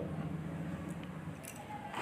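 Quiet room tone with a steady low hum and a faint click about one and a half seconds in.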